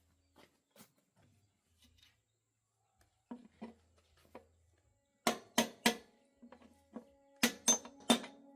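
Sharp metallic knocks of workshop tool work: a few soft taps, then two quick groups of three loud strikes in the second half, over a faint steady hum.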